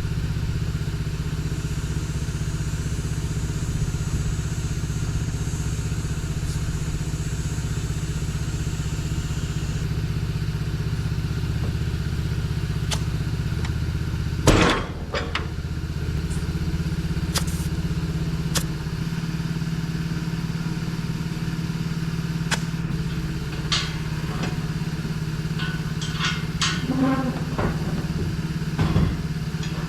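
An engine running steadily at idle, with scattered clicks and clanks and one loud knock about 15 seconds in.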